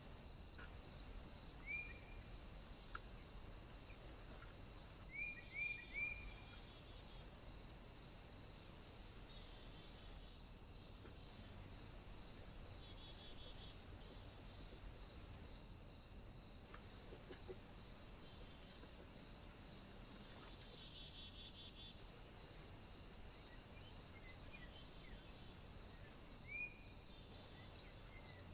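A bird calling with a few short, sharp chirps: one about two seconds in, a quick run of three a few seconds later, and one near the end, over a steady faint high hiss.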